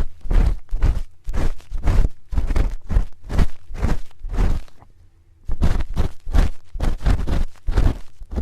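A spoon scraping and rubbing against an ear-shaped microphone for ASMR ear cleaning, in quick close strokes about three a second, with a brief pause a little past the middle.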